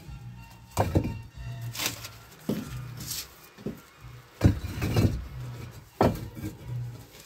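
Stones knocking against each other as they are packed into place by hand: about seven sharp clacks, irregularly spaced.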